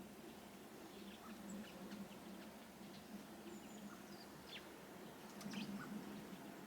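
Faint, scattered chirps and short call notes from small garden birds, a few of them quick falling notes, over a steady low hum.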